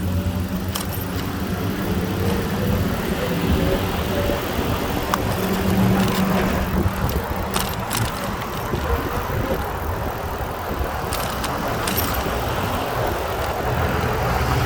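Wind rumbling on the microphone and tyre noise from a bicycle being ridden along the street, over a low steady hum from a car's engine, with a few sharp clicks.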